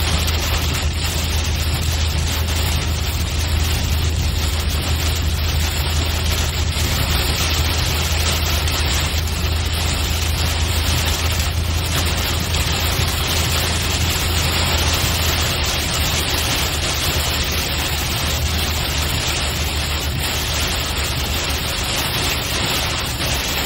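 Steady road and engine drone heard inside a moving car on a highway, under an even hiss of rain and tyre spray.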